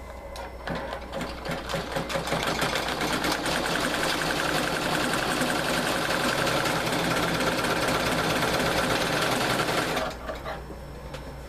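Butterfly embroidery machine stitching: a few separate needle strokes, then it speeds up to a rapid, steady stitching rhythm within about two seconds, and it stops abruptly near the end.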